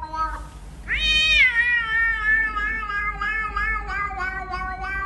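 A cat giving one long, drawn-out meow that starts about a second in, rising sharply and then sinking slowly with a wavering pitch.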